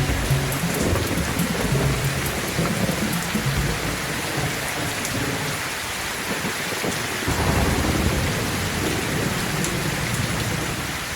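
Steady heavy rain with low rolling thunder; a stronger roll of thunder comes in about seven seconds in.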